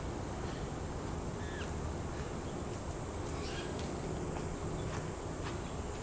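Outdoor ambience: a steady high-pitched insect drone with a few short bird chirps over a low, even rumble.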